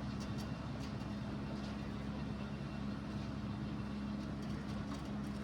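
Steady low mechanical hum from a running machine, with a few faint high ticks.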